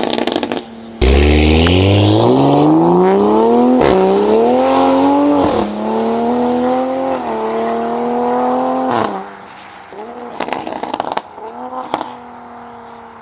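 Toyota GR Supra through a titanium and stainless full aftermarket exhaust: idling, then a sudden loud burst of throttle about a second in, the revs climbing in several pulls, each broken by a quick drop, before settling lower. Near the end a string of sharp pops and crackles comes from the exhaust as the revs fall away.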